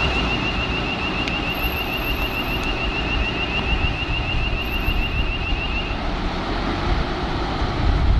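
Fire truck's electronic siren on a fast warble, wavering rapidly up and down, cutting off about six seconds in, over a steady rumble of vehicle engine and road noise.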